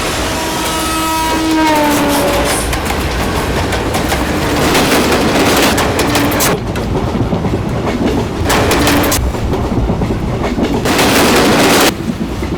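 Train passing: its horn sounds and drops in pitch over the first two seconds, then the rumble and clatter of wheels on the rails, the noise cutting in and out abruptly several times.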